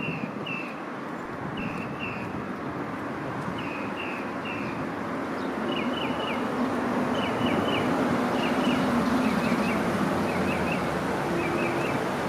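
A bird calling repeatedly with short high chirps, in pairs at first and then in quick runs of notes. Under it is steady street noise, with a vehicle's engine hum that swells through the middle.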